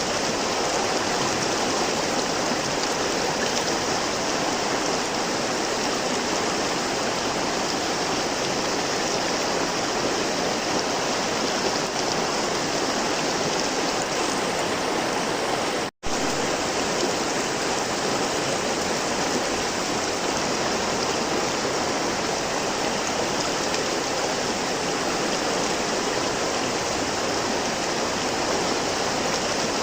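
River water flowing and rushing steadily, with a split-second dropout to silence about halfway through.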